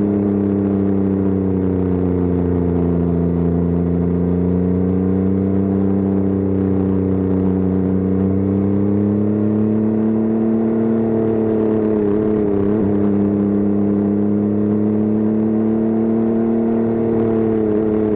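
Motorcycle engine running steadily at cruising speed, its note rising and falling gently with the throttle, with a brief dip about twelve seconds in.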